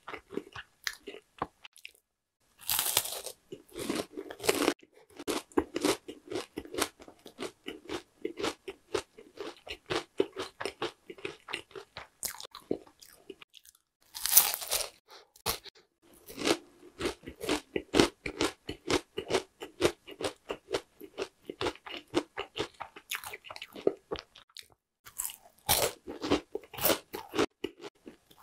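Crunchy bites into an oranda, a glazed puffed-grain snack bar, with steady crackly chewing between them. Three louder bites come about three seconds in, about fourteen seconds in, and near the end.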